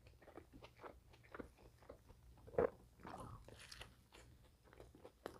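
Close-miked chewing with soft wet mouth clicks and smacks, with one sharper, louder smack about two and a half seconds in.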